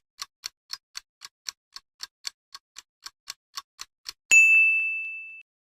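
Quiz countdown timer sound effect: clock ticks at about four a second, then a single bell ding about four seconds in that rings and fades over about a second, marking that time is up.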